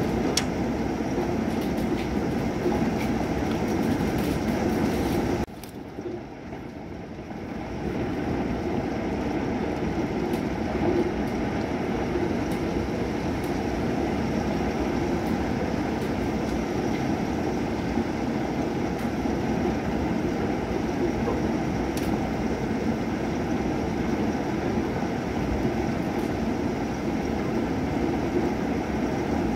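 Night thunderstorm: steady rain with a low rumbling undertone and scattered sharp drip ticks. The sound drops away suddenly about five seconds in and swells back a couple of seconds later.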